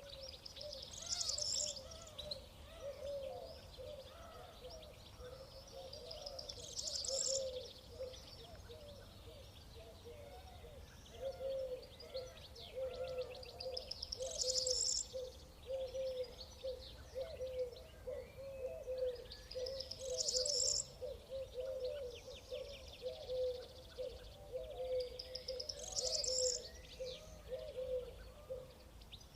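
Birds singing outdoors: one bird repeats a short, high song phrase about every six seconds, over a continuous lower warbling chorus.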